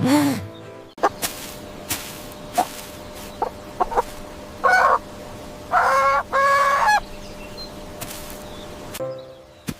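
Chickens clucking: several short, sharp clucks, then three louder drawn-out calls, the last two back to back near the middle.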